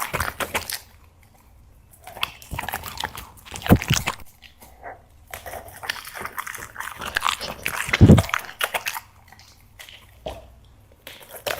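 Black Labrador chewing and crunching dry seafood treats, in bouts of rapid crunching broken by short pauses, with two louder thuds about four and eight seconds in.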